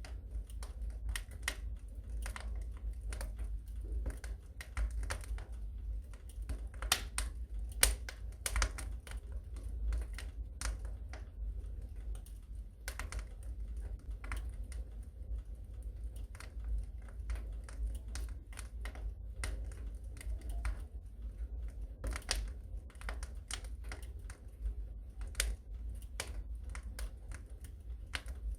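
Wood fire crackling in a fireplace: irregular sharp pops and snaps, sometimes several in quick succession, over a steady low rumble.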